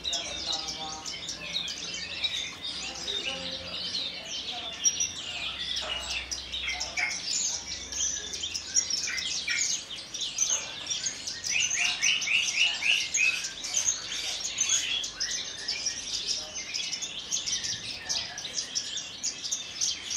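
Javan bush lark (branjangan) singing a long, varied run of fast chirps, trills and whistles, with a quick series of repeated notes about halfway through.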